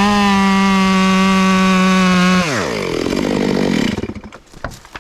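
Two-stroke chainsaw held at full throttle on one steady high note. It is let back to idle about two and a half seconds in, and the engine sound stops about a second later.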